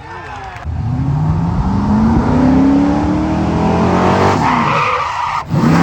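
Motor vehicle engine accelerating hard, its pitch climbing steeply for a couple of seconds and then holding high. Near the end it breaks off sharply for an instant and climbs again.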